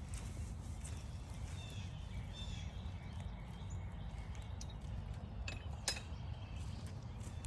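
Faint, short songbird chirps over a steady low rumble, then two sharp clicks near the end.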